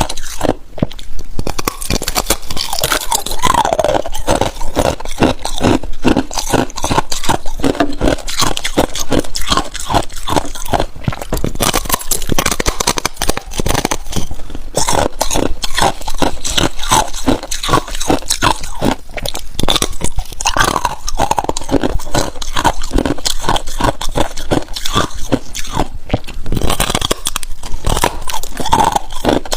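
Ice being bitten and chewed close to the microphone: a continuous run of loud, sharp crunches and cracks, several a second.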